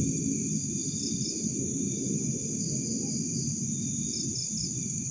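A steady chorus of night insects, crickets among them, with a high continuous trill and a few short chirps, over a low steady rumble.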